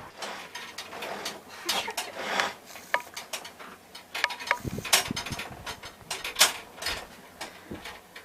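Pots, pans and utensils clattering as they are handled, a string of separate knocks and clinks at uneven intervals.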